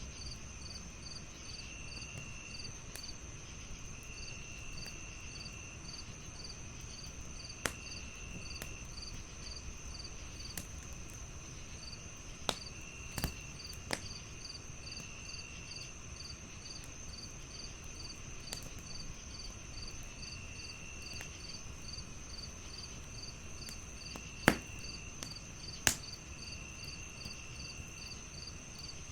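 Crickets chirping steadily in layers: one continuous high trill, another chirping about three times a second, and a lower trill that comes and goes. Over them, a wood fire crackles with a handful of sharp, isolated pops, the loudest near the end.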